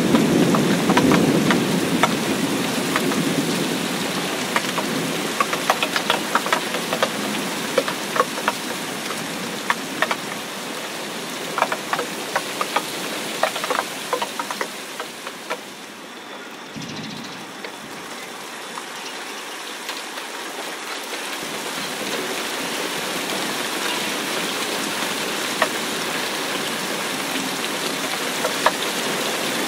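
Rain falling on a flooded puddle and wet grass: a steady hiss with many close drops ticking sharply through the first half. A low rumble of thunder fades away over the first few seconds, and the hiss eases a little past the middle before building again.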